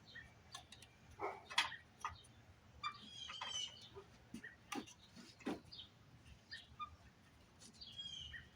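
Scattered light clicks and taps, with a bird chirping in short bursts about three seconds in and again near the end.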